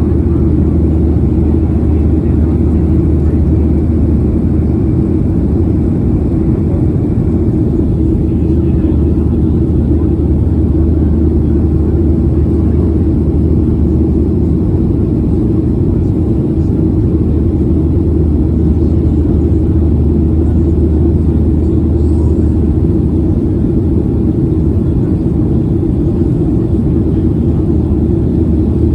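Airliner cabin noise heard from a passenger seat during the climb after takeoff: a steady, loud, low drone of jet engines and airflow, with a deep hum underneath, unchanging throughout.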